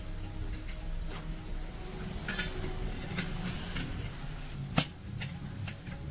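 Metal clinks and knocks from tyre-repair work, with one sharper strike near the end, over a steady low hum.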